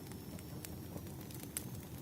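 Wood fire crackling: a steady low rumble with scattered sharp pops and snaps, the loudest about one and a half seconds in.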